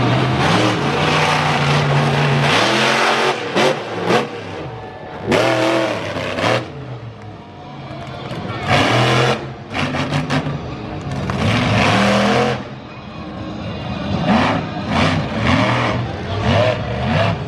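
Monster truck engine revving hard in repeated bursts, its pitch climbing and falling as the throttle is opened and chopped, with brief lulls between runs.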